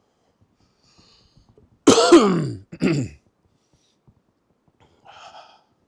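A man clears his throat: a loud rasping throat-clear with falling pitch about two seconds in, followed by a shorter second one.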